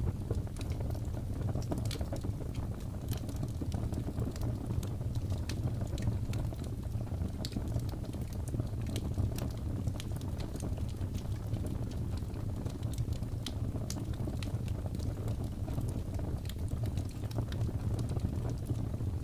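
Wood fire burning with a steady low rumble and frequent small crackles and pops scattered throughout.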